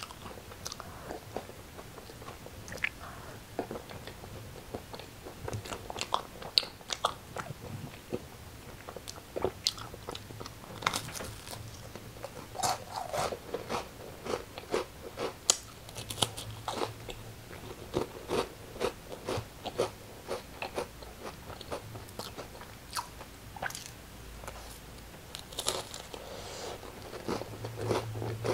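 Close-miked biting and chewing of crunchy food, with many irregular sharp crunches throughout.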